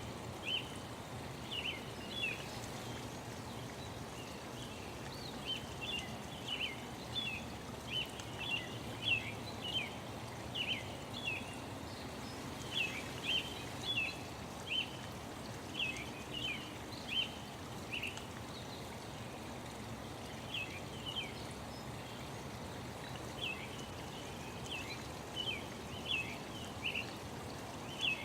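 Small birds chirping: short, quick high chirps in clusters, with brief pauses, over a steady rushing background like running water.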